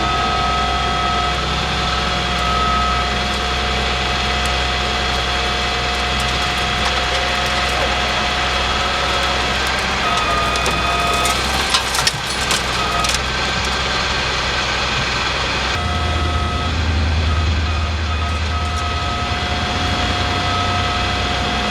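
Heavy truck engines idling, a steady low hum with a steady whine above it. A short cluster of metallic knocks and clicks comes near the middle. The low engine note grows heavier after about 16 s.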